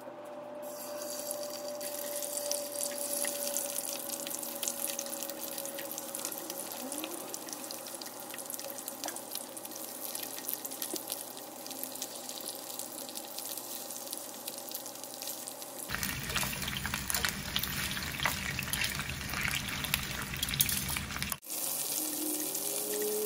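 Raw chicken drumsticks sizzling and crackling as they fry in hot oil in a nonstick frying pan, starting about a second in as they go into the oil.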